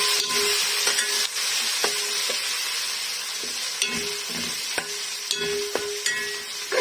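Fried onions and whole spices sizzling in hot oil in a metal pot while a metal slotted spatula stirs, scraping and clicking against the pot's bottom and sides. The sizzle eases off slowly.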